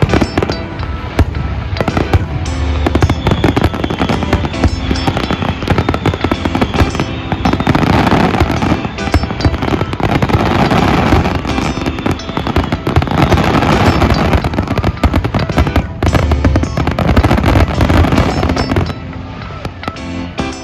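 A fireworks display: rapid bangs and crackling from bursting shells, dense and continuous, thinning out near the end. Music plays under it.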